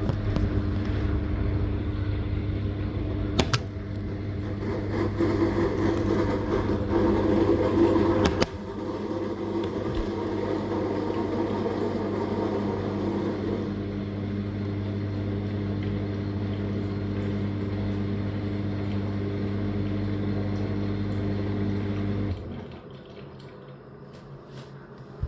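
Living & Co 5.5 kg top-loader washing machine's drain pump running with a steady hum as it pumps the water out at the end of the cycle. For the first several seconds it has a rougher rushing, gurgling edge. The hum cuts off suddenly near the end as the pump stops.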